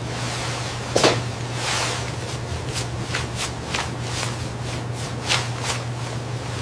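Scattered soft rustling and handling clicks, about a dozen, the strongest about a second in, over a steady hiss and low hum.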